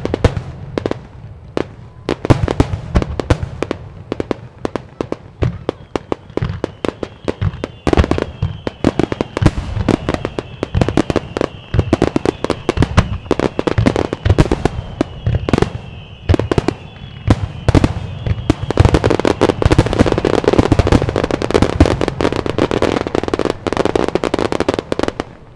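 Fireworks display in a rapid barrage: many aerial shell bursts a second, with faint short whistling tones through the middle and a denser run of bangs and crackle near the end.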